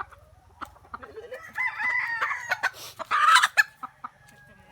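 Native chickens calling: a rooster crows from about a second in, followed by a louder, harsher burst of clucking about three seconds in.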